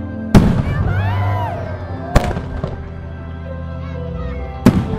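Aerial firework shells bursting, three sharp booms: one just after the start, one about two seconds in, and one near the end. Music plays steadily underneath.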